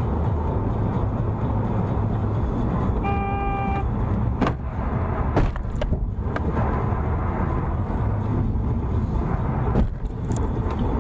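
Steady road and engine rumble of a moving car, with a car horn sounding briefly about three seconds in and a few short knocks after it.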